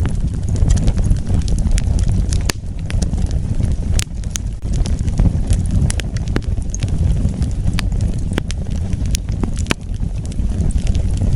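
Wood fire burning, with a steady low rumble of flames and frequent irregular sharp crackles and pops. The crackles come in bursts, with a couple of louder pops in the first few seconds.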